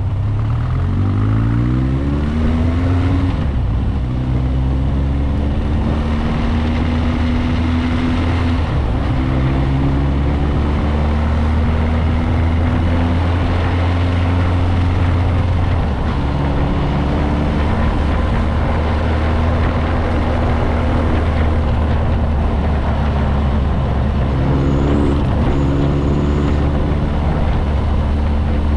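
Motorcycle engine running while riding, its pitch climbing and then dropping at each gear change. Shifts come a few seconds in, at about 9 and 16 seconds, and again near 25 seconds, between stretches of fairly steady running, all over a constant rushing noise.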